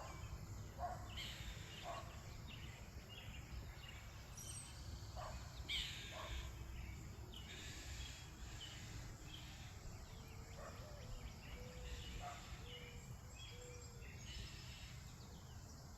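Garden birds calling and singing faintly, in short high chirps scattered throughout. In the last third a run of about five low, evenly spaced notes comes in, over a steady low background rumble.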